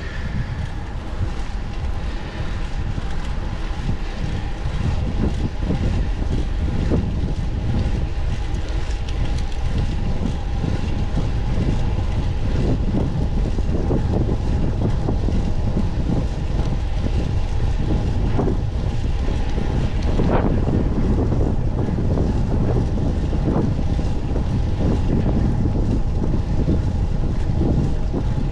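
Wind rushing over the microphone of a moving fixed-gear bicycle, over a steady low rumble of tyres on the road, with a faint steady hum.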